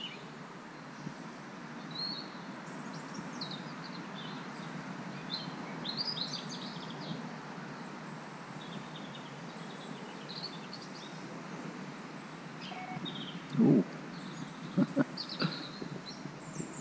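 Small birds chirping and twittering over a steady outdoor background hiss. Near the end there are a few sharp clicks.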